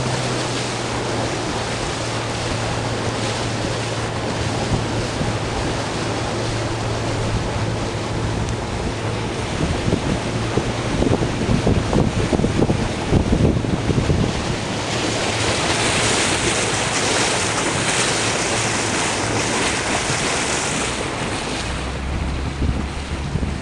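Boat under way: a steady low engine hum with water rushing along the hull and wind buffeting the microphone. The hiss of water and spray grows louder about two-thirds of the way through.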